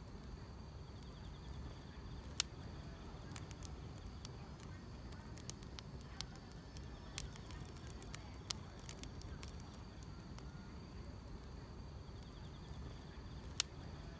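Wood fire crackling, with scattered sharp pops (the loudest about two seconds in and near the end) over a low steady rumble. A faint steady trill of grass insects runs underneath.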